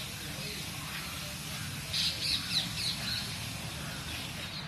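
A bird giving a quick run of short, high chirps about two seconds in, over steady background noise.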